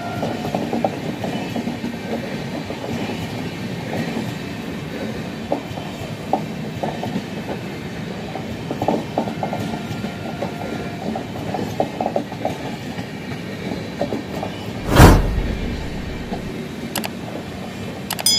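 Red-and-grey LHB passenger coaches of an Indian Railways train rolling past, a steady rumble of wheels on rail broken by irregular clacks. A brief, very loud blast of noise comes about fifteen seconds in.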